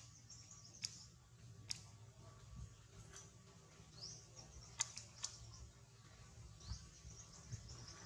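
Faint ambience: high, short bird chirps on and off, a handful of sharp clicks (the loudest cluster about five seconds in) and a low rumble underneath.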